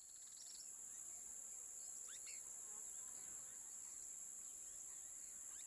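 Faint jungle ambience: a steady, high-pitched insect drone with a few faint chirps now and then.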